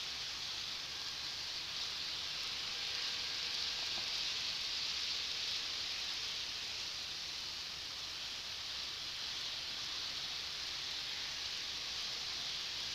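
A steady high hiss at an even level.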